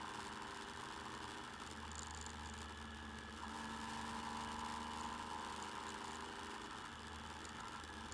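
Motorcycle engine running steadily while riding, picked up by the bike-mounted camera's microphone. The engine note shifts slightly about three and a half seconds in.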